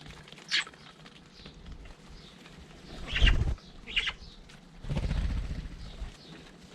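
Garden birds at a feeder giving a few short high chirps, about half a second, three and four seconds in, among low thumps and pattering close by, from birds landing and moving on the feeder. A longer low rumble follows around five seconds in.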